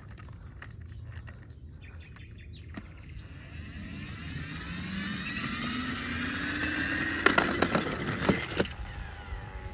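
A motor speeding up, its pitch climbing steadily for several seconds as it gets louder, followed by a quick run of sharp clicks and knocks.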